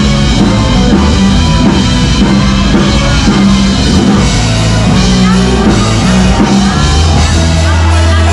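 Loud rock music from a band, with a drum kit keeping a steady beat under sustained bass notes.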